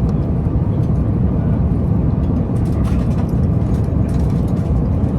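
Airliner cabin noise in flight: a steady low drone of engines and rushing air, with a few faint clicks over it.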